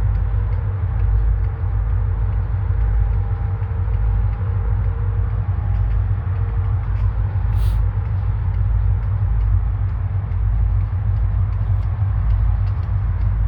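Indiana and Ohio Railway train passing, a steady low rumble.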